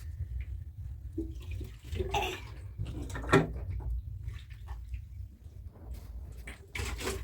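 Water sloshing and splashing, with a sharp knock about three seconds in, over a steady low rumble.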